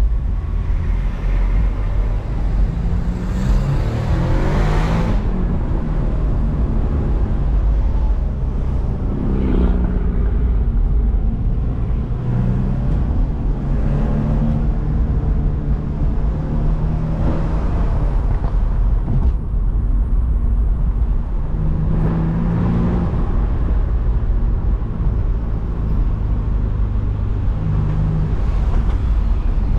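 BMW Z4 engine pulling on a drive, its note rising and falling several times as it accelerates and eases off, over a heavy low rumble of wind and road noise. It swells louder a few times.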